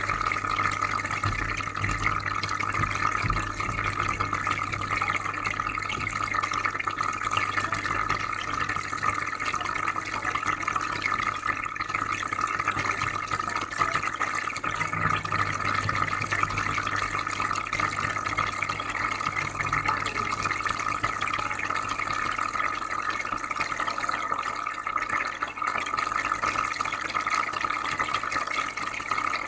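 Aquarium filter running steadily: a constant trickle and bubbling of water over a low, even hum.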